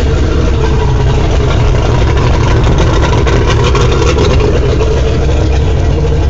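Mercury 175 carbureted outboard engine running steadily at idle in neutral, moments after being restarted.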